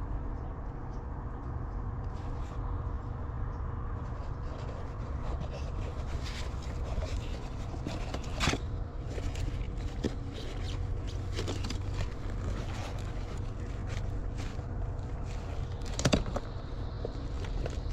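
Rummaging in a dumpster: scattered clicks, scrapes and knocks of items being handled over a steady low rumble, with a sharper knock about eight seconds in and the loudest one near the end.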